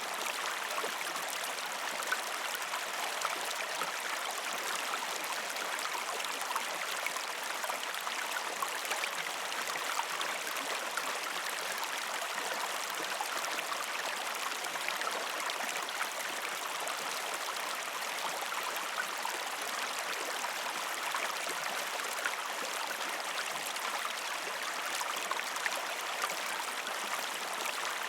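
A river stream flowing over rocks: a steady rushing hiss with constant small splashing and gurgling.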